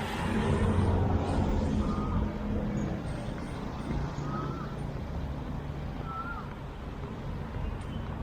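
Street traffic: a motor vehicle's engine passes close, loudest in the first three seconds, then fades into a steady hum of traffic.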